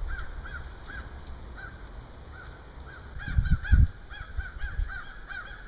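Wild birds calling: a string of short, arched call notes repeated over and over, coming faster toward the end. Two loud low thumps a little past halfway stand out above the calls.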